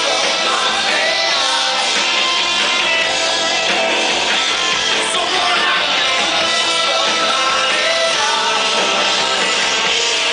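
Rock band playing live, with electric guitars and a singing voice, recorded from the crowd: loud, dense, and steady.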